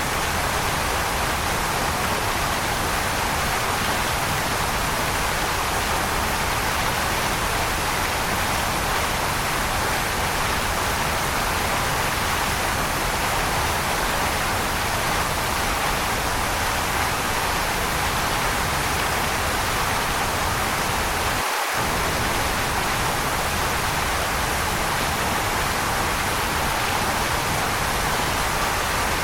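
Waterfall: an even, steady rush of falling water, strongest in the upper middle range, with a momentary drop in the low rumble near the end.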